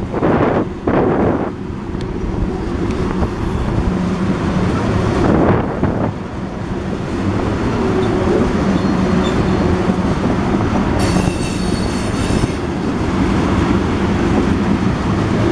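Freight train of ethanol tank cars rolling past: a steady rumble and clatter of steel wheels on the rails, with a brief high-pitched wheel squeal about eleven seconds in.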